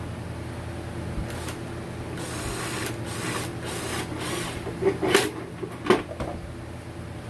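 Workshop handling noise: scraping and rustling over a low steady hum, then a few sharp knocks about five to six seconds in.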